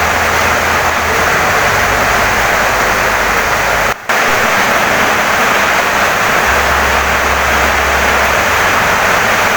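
Heavy rain pouring steadily on a wooden house, a dense even hiss that cuts out for a split second about four seconds in.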